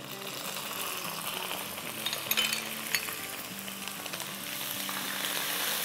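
Ginger-garlic paste and green chilies sizzling in hot oil with frying potato pieces in a stainless steel wok. The sizzle swells in the first second as the paste goes in, and a wooden spatula stirs with a few light knocks near the middle.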